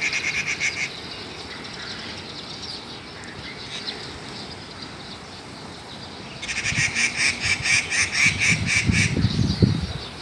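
Wild birds calling: fast runs of shrill repeated notes, about five a second, briefly at the start and again in a longer run from about six and a half seconds in, with softer calls in between. Some low thumps near the end.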